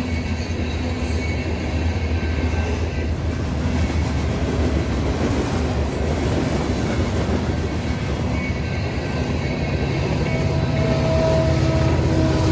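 A freight train of grain hopper cars rolling past with a steady low rumble and wheel clatter, growing slightly louder near the end.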